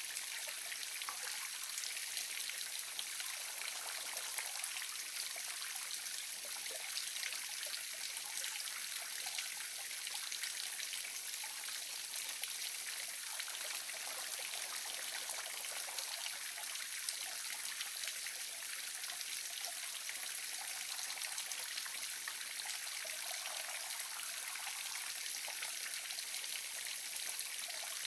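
Small waterfall splashing steadily: an even, hissing rush of falling water with fine trickling and splashing detail.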